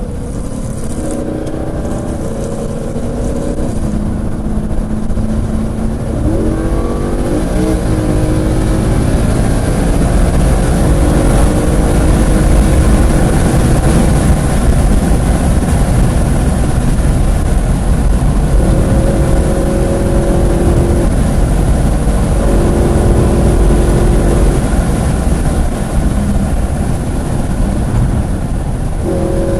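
Track car's engine running hard at speed on a road course, its pitch climbing and stepping between gears, over steady wind and tyre noise.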